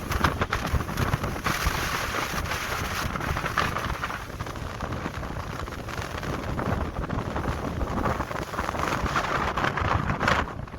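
Strong wind buffeting the microphone, a heavy rumble with a hiss that swells and eases twice.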